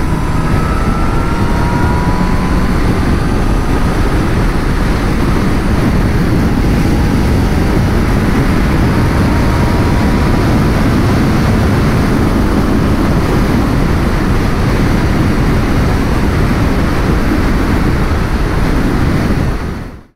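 Wind rushing over the microphone on a moving Honda CB1000R motorcycle, with road and engine noise underneath and a few faint tones rising slowly in pitch in the first few seconds. The sound fades out quickly near the end.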